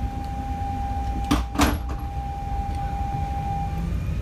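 Low steady rumble inside an Alstom Régiolis regional train, with a steady high tone that cuts off near the end and two sharp knocks in quick succession about a second and a half in.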